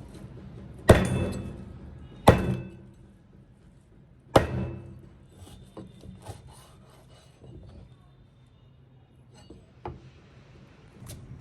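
Three sharp knocks, each ringing briefly, the second about a second and a half after the first and the third two seconds later, followed by faint scattered clicks and rubbing.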